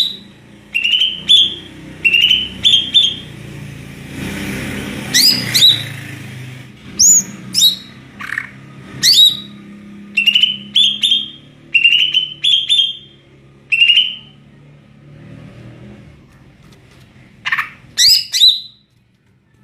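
Green leafbird (cucak ijo) singing loudly and freely: quick runs of short, upward-slurred whistled notes mixed with sharp sweeping calls, with a pause a few seconds before the end and a steady low hum underneath.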